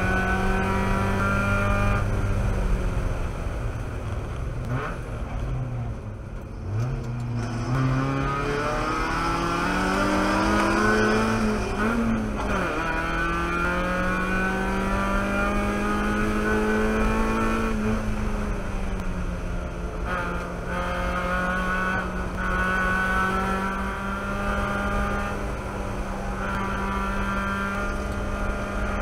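Mazda Miata race car's four-cylinder engine heard from inside the cockpit, revs falling and rising as the driver lifts, shifts down from fourth to third and accelerates hard again through the corners.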